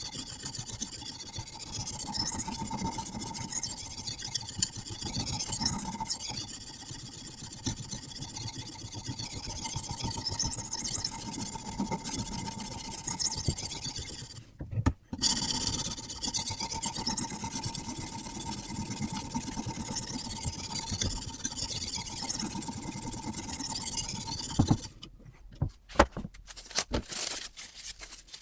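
Sharpening stone on a guided-system rod scraping in repeated strokes along a carbon steel knife blade, pausing briefly about halfway. Near the end the scraping stops and a few clicks and knocks follow.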